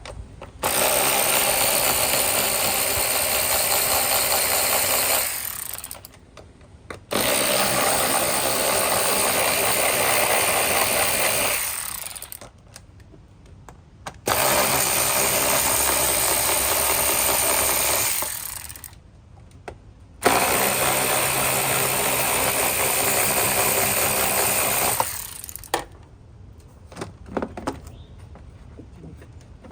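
Power drill driving an 8 mm socket, run four times for about four to five seconds each, backing out the four screws of the air filter box cover. A few light clicks follow near the end.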